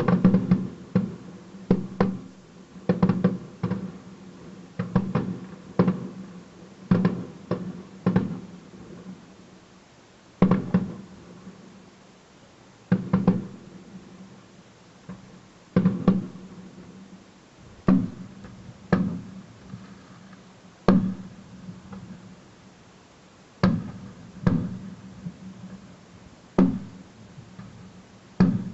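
Fireworks exploding in an irregular series of sharp bangs, each with a short echoing tail. The bangs come in quick clusters for the first ten seconds or so, then more sparsely, one every one to three seconds.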